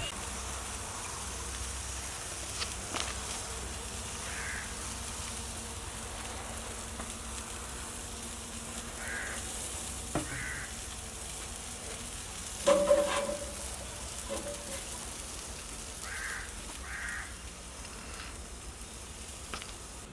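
Beef tongue kebab meat sizzling over a fire, a steady hiss. A few short calls sound in pairs, and one loud sudden clank with a brief ringing tone comes a little past halfway.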